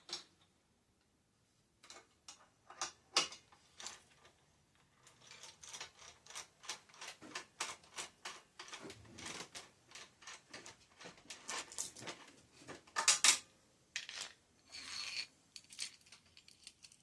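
Metal parts of a bicycle headset cup press clicking and clinking as it is handled and worked on the frame's head tube, with one loud clank about 13 seconds in.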